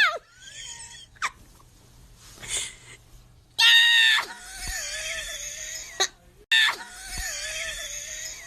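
A cat yowling: two long calls that waver in pitch, the second following shortly after the first.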